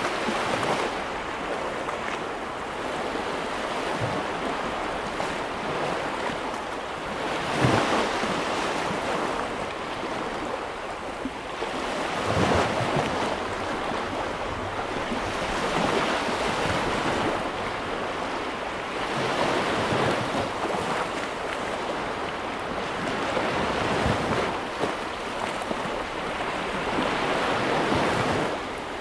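Ocean surf: waves breaking and washing up, a continuous rush of water that swells louder every few seconds as each wave comes in.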